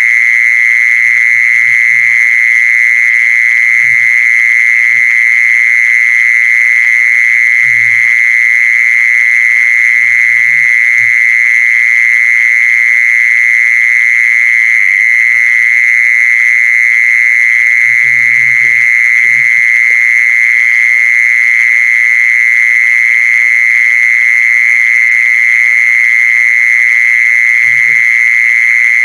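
A recorded animal lure call for the female khmol: one loud, high-pitched trill held unbroken at a single steady pitch.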